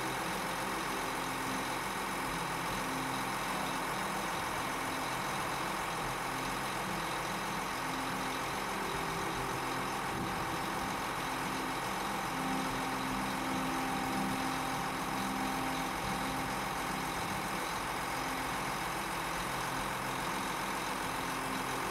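Case IH 485Q quad-track tractor's diesel engine idling steadily.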